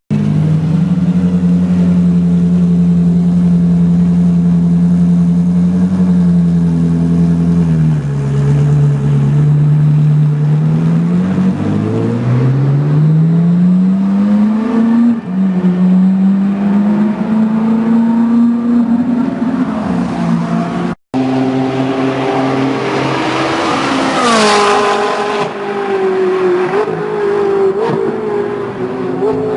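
Ferrari 458 Challenge's straight-piped V8 engine running hard on track. Its note holds steady, drops, then climbs twice through a gear change. After a brief break about 21 seconds in, the note falls sharply with a burst of hiss about three seconds later.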